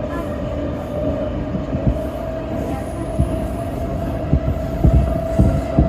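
Electric commuter train running on the Tōyō Rapid Railway: a steady low rumble with a steady high whine. Irregular low thumps get heavier near the end.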